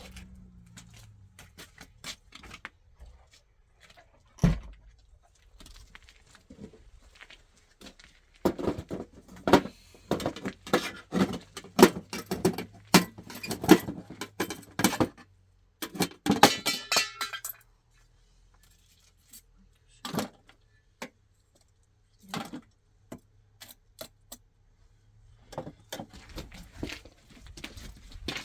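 Irregular clinks, knocks and rattles of hard objects being handled, thickest through the middle, with a brief metallic ring about two-thirds of the way through and quiet gaps between.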